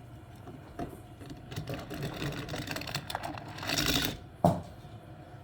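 Plastic toy cars and a toy car-wash garage playset being handled: a run of quick clicks and rattles, a louder rattling rush about three and a half seconds in, then one sharp knock.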